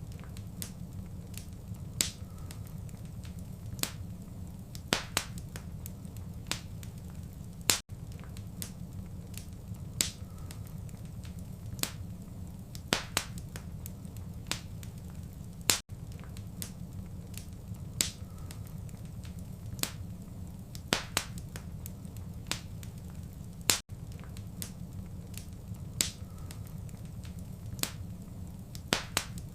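Wood fire crackling: irregular sharp pops and snaps over a steady low rumble of burning. The sound drops out for an instant three times, about eight seconds apart.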